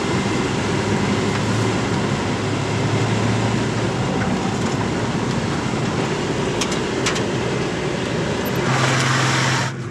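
A 4x4 truck being driven over a dirt lake bed: steady engine and tyre noise, with two sharp clicks about seven seconds in. The noise swells near the end, then drops off suddenly.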